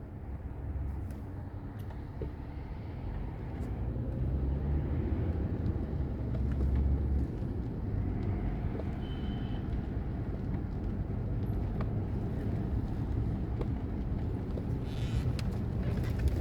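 A car driving, with a steady low rumble from the engine and road that swells slightly a few seconds in; a few faint clicks and a brief high beep are also heard.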